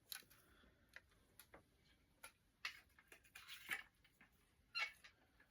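Faint, irregular clicks and taps of a plastic cassette tape case being handled.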